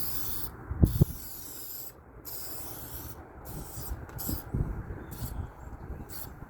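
Aerosol can of Meguiar's Keep Clear headlight coating spraying in repeated hissing passes, three long ones and then shorter puffs about once a second, laying down a light first coat. Two sharp knocks about a second in.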